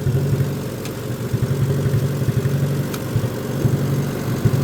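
Tractor engine running at a steady speed while mowing grass, with a low, uneven flutter.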